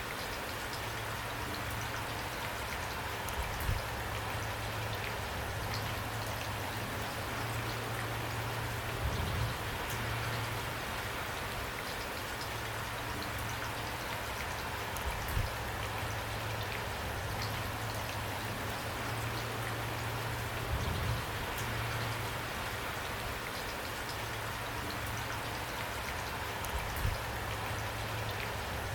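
Steady rain falling, with an even patter of drops on a surface. A soft low thud comes about every six seconds.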